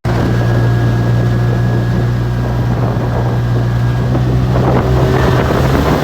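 Jon boat's motor running steadily at one speed while under way, with wind noise on the microphone and a rougher rushing noise building near the end.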